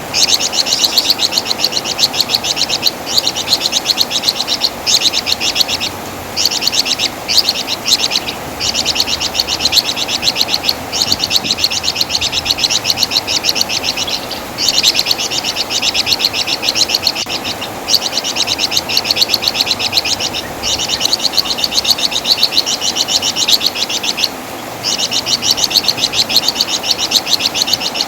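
A flamboyan (wergan Jawa) songbird singing repeated phrases of rapid, high chattering trills, each lasting one to four seconds, with short pauses between them.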